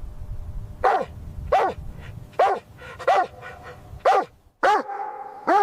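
A dog barking repeatedly: about seven single barks, a little under a second apart.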